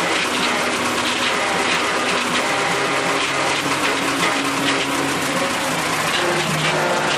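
Massey Ferguson tractor running steadily at work, its engine note under a loud, even mechanical wash that does not let up.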